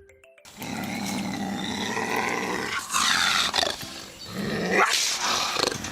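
Cougar growling continuously, breaking into two louder, harsher snarls about three and five seconds in.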